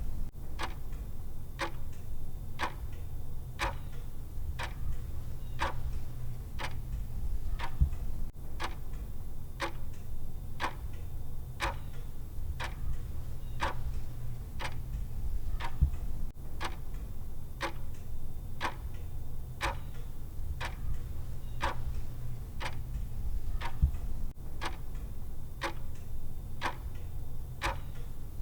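Clock-style tick sound effect of a countdown timer: evenly spaced ticks at a steady rate, over a low steady hum.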